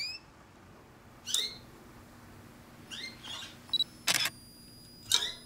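Small cage birds chirping: about six short, sharp calls, each sweeping upward in pitch, with the loudest two near the end.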